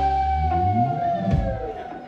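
Live rock band ending a song: a held note slides down in pitch and dies away as the bass drops out, with one drum hit about a second and a half in.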